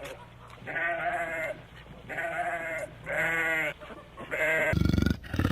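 Sheep bleating four times in separate calls, each about a second long with a wavering pitch, the last one shorter. Near the end a loud, low rumbling call cuts in.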